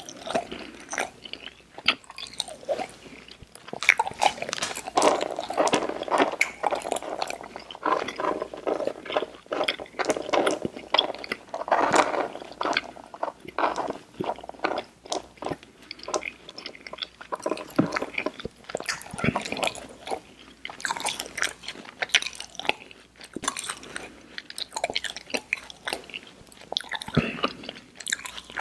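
Mouth sounds of chewing Airheads Xtremes sour chewy candy: a continuous, irregular run of quick sticky clicks and smacks.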